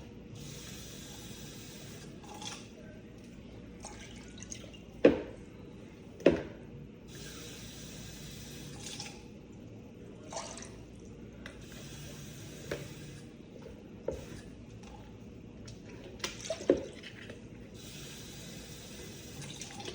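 Water running from a kitchen tap in several spells of a second or two, starting and stopping, with a few sharp knocks in between.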